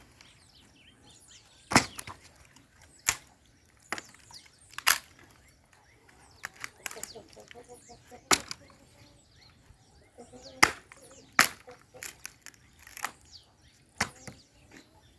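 Sharp wooden knocks, about a dozen at irregular intervals, as pieces of algaroba firewood and old fence stakes are handled and stacked into a bonfire pile.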